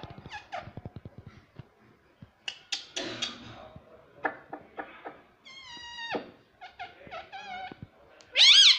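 Pet parrot chattering and calling: a quick run of clicks, then several short squeaky calls, a couple sliding down in pitch, and a loud shrill screech near the end.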